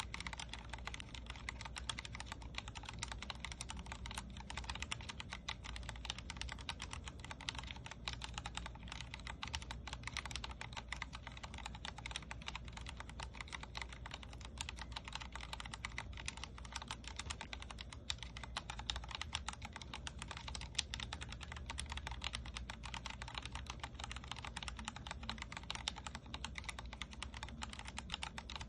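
Continuous fast typing on a Vortex Core 40% mechanical keyboard with Cherry MX Speed Silver linear switches: a dense, steady stream of keystroke clacks.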